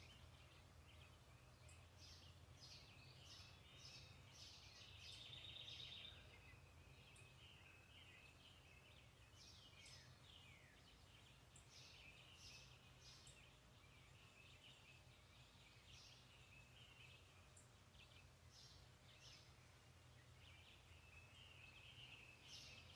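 Faint birdsong: many short chirps and calls from several birds, with one rapid trill about five seconds in, over a steady low hum.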